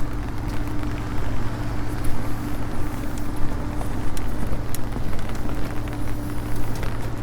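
Light rain pattering on a held umbrella, with scattered sharp drop ticks, over a steady low hum.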